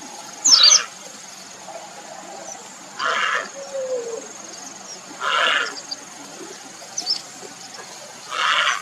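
Grey heron giving four short, harsh croaking calls, about every two and a half seconds; the first, about half a second in, is the loudest.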